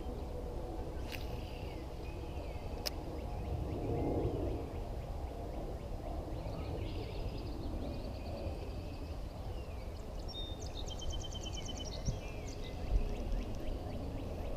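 Songbirds calling with quick trilled, repeated notes, several times and loudest in the second half, over a steady low outdoor rumble with a couple of sharp clicks early on.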